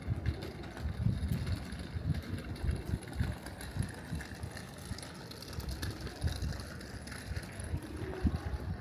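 Busy old-town street ambience with an uneven low rumble that swells and fades every moment, over a faint general hiss.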